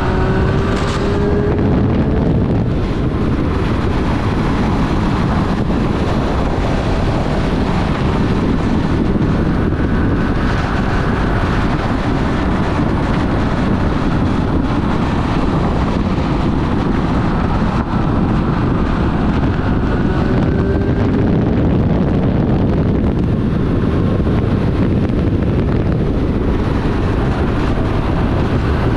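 2024 Triumph Street Triple 765 RS's inline three-cylinder engine running on the move, under a heavy rush of wind on the microphone. The engine note rises about a second in and again around twenty seconds in.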